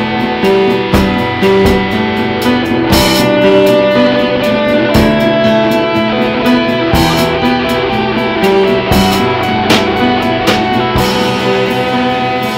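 Instrumental band music: guitar and piano over a steady drum-kit beat, with cymbal crashes now and then.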